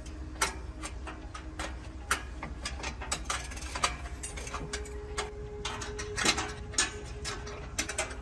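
Irregular clicks and knocks of hand tools working on truck engine parts, over a low steady hum.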